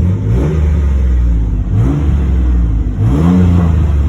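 Chevy Blazer's 4.3-liter V6 through Flowmaster Super 10 mufflers, revved three times over a steady low idle rumble, the last rev the longest and highest. Heard from inside the cab.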